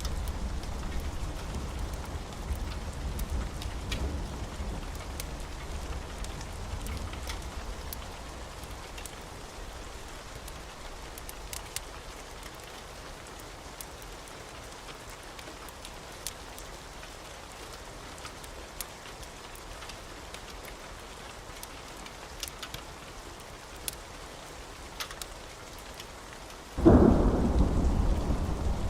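Wood fire crackling: scattered sharp pops over a soft steady hiss. A low rumble fades away over the first several seconds, and a much louder rumbling burst comes in suddenly near the end.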